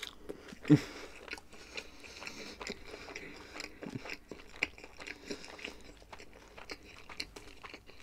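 Close-up eating sounds: a person chewing and biting food, with a stream of small wet mouth clicks and one louder bite just under a second in.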